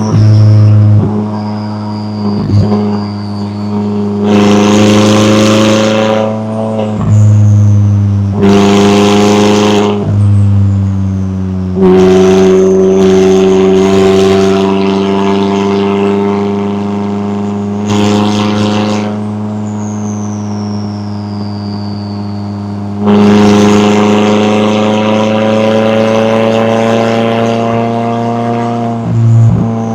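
McLaren 570S twin-turbo V8 exhaust on the move, with several hard bursts of throttle that bring a sudden roar, and the engine note dropping between them as it changes gear.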